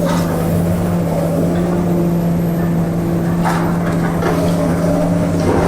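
Heavy diesel machinery on a demolition site running with a steady, unbroken hum, with a few brief clatters of debris about three and a half seconds in and near the end.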